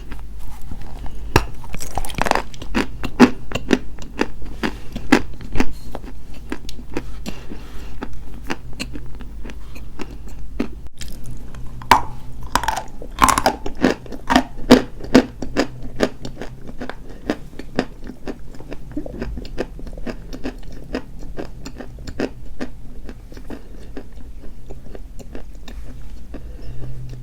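Dry white chalk being bitten and chewed close to the microphone: dense crackling crunches throughout. Louder bites come about two seconds in and again around twelve to fifteen seconds in.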